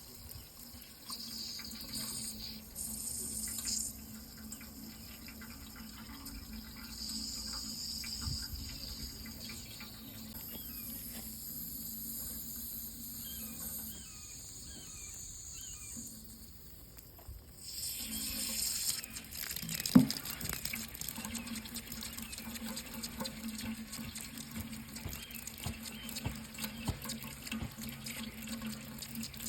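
Water running steadily, with a shift in its sound about two-thirds of the way through and a single sharp knock shortly after.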